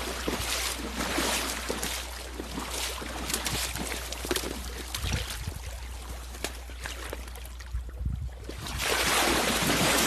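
Water sounds, splashing and trickling, with many short crackles; quieter a little before the end, then louder again near the end.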